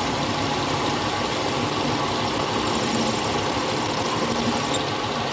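An engine or machine motor running steadily with an even hum, with no change in speed.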